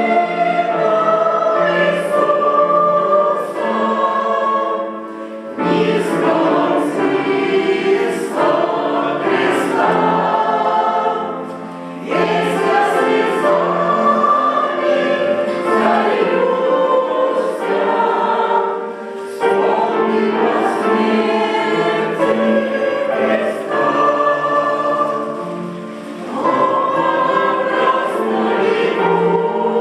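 Church choir singing a hymn in long phrases, with brief pauses between phrases about every seven seconds.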